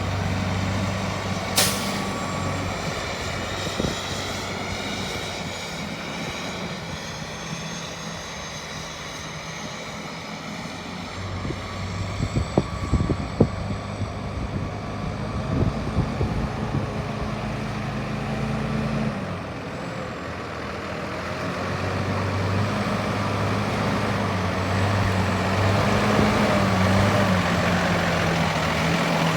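A Peterbilt 337 feed truck's diesel engine running, its pitch stepping up and down several times. There is a sharp click about two seconds in and a cluster of knocks around the middle.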